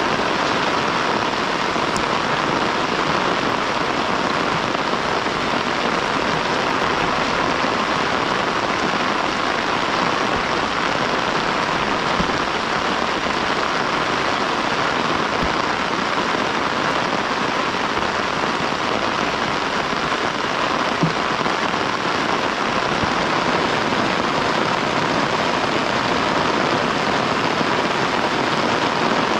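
Steady heavy rain falling, a constant even hiss with a few faint drips and ticks now and then.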